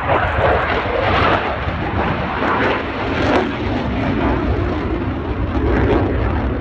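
Eurofighter Typhoon jet with twin Eurojet EJ200 turbofans, very loud. The jet noise comes in abruptly and swells and eases several times.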